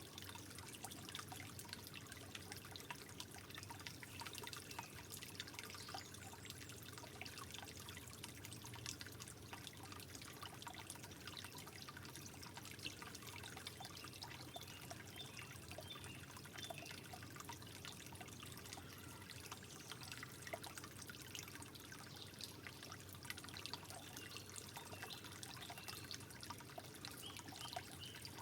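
Soft, steady trickling water, a continuous wash of many small drips and splashes.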